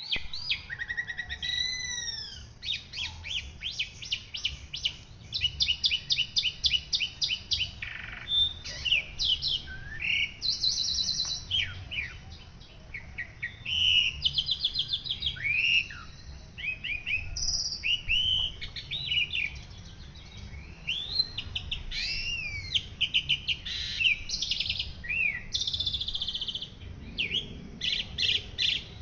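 Songbird singing a long, varied, non-stop song: rapid trains of quick repeated notes, rising and falling whistled glides and short trilled phrases, in the manner of a 'gacor' (in full song) bird on a masteran training recording.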